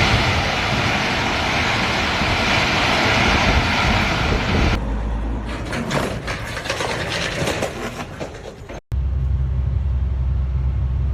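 Heavy truck noise: a loud rushing of engine and road noise, which gives way about five seconds in to a lower rumble with many knocks and rattles. It cuts off abruptly near nine seconds and is followed by a steady low engine drone.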